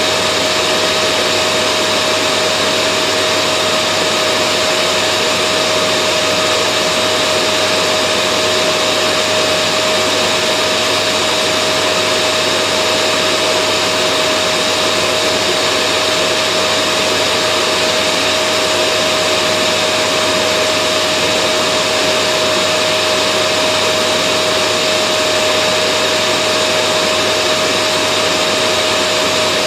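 Vacuum cleaner motor running steadily: a constant whooshing hum with a steady whine through it, unchanging throughout.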